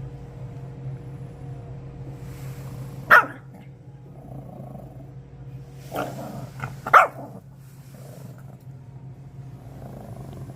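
A dog barking three times: one sharp bark about three seconds in, then two more about a second apart near the middle, with low growly sounds between them.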